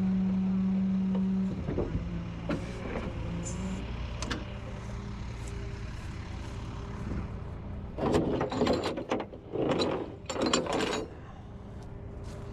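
A vehicle engine idling with a steady low hum. A loud steady tone sounds for about the first second and a half, and a few louder bursts of noise come about eight to eleven seconds in.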